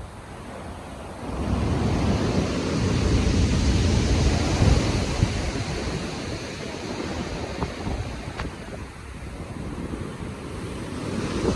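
Rough sea waves breaking and rushing in, one surge building about a second and a half in, swelling and slowly easing, with the next one rising near the end, under wind buffeting the microphone.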